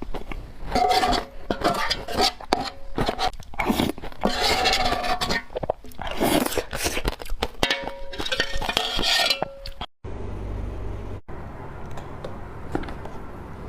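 Close-up biting and crunching of frozen matcha ice, a quick run of crisp cracks and crunches. About ten seconds in the crunching stops abruptly, leaving only a low steady hum with a few faint ticks.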